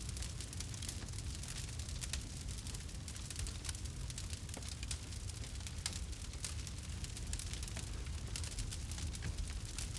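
Campfire burning: wood crackling and popping in quick, irregular clicks over a steady low rumble of the flames.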